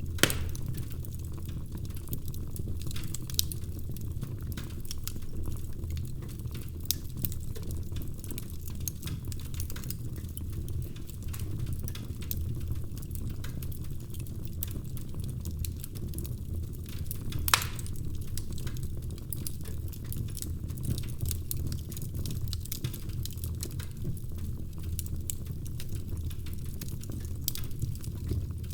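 Wood fire burning in a fireplace: a steady low rumble of flames with constant crackling and occasional sharper pops, the loudest just after the start and about two thirds of the way through.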